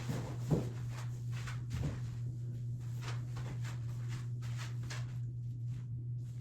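Footsteps, a few a second, over a steady low hum.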